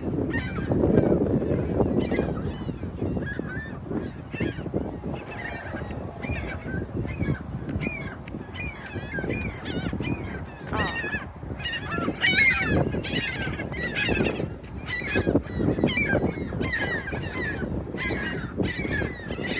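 A large flock of gulls calling over and over, many harsh cries overlapping, the alarm calls of a distraught flock gathered around a trapped young gull. A low rumbling noise runs underneath, strongest in the first couple of seconds.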